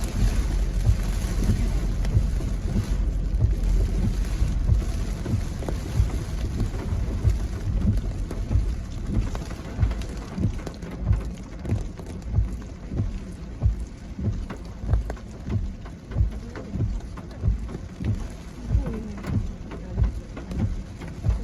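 Rain on a moving car heard from inside the cabin, over low road and tyre noise. From about halfway through, a regular thump comes a little faster than once a second.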